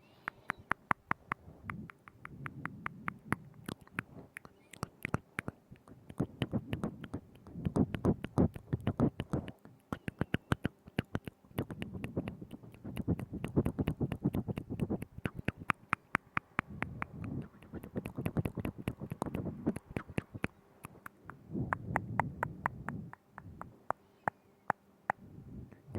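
ASMR mouth sounds right at a binaural microphone: rapid wet clicks and smacks of tongue and lips, in bursts of a few seconds with short pauses.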